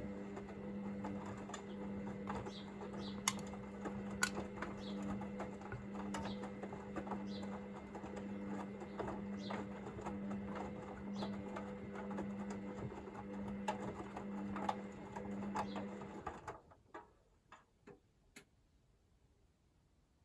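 Hoover VisionDynamic washing machine turning its drum during the heat-to-40°C wash phase: a steady motor hum with light ticks from the tumbling load. The drum stops about 16 seconds in, and a few single clicks follow.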